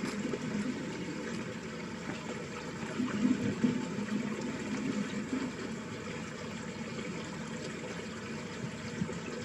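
Water running steadily in a small ditch, a continuous splashing flow that swells a little about three seconds in.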